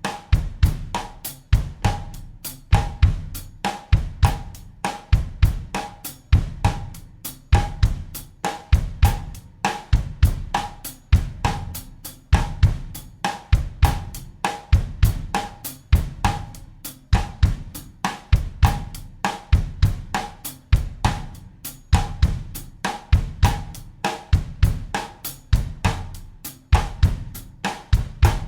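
Drum kit playing a steady bossa nova groove in 4/4 at 100 BPM, with an even run of hi-hat and cymbal strokes over a repeating bass drum and snare pattern.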